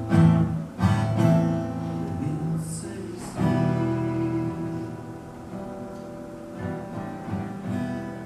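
Acoustic guitar strumming chords in an instrumental break between sung lines: strong strokes near the start, about a second in and about three and a half seconds in, each left to ring and fade, the playing growing quieter toward the end.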